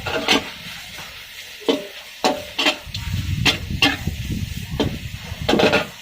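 Metal spatula scraping and clanking against a wok during stir-frying, about eight strokes at uneven intervals, with food sizzling and a low rumble underneath.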